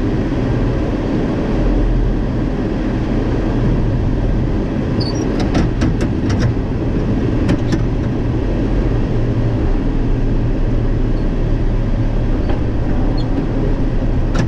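Tractor engine running steadily under load while towing a chaser bin, heard as a constant low drone, with a few sharp clicks or rattles about five to eight seconds in.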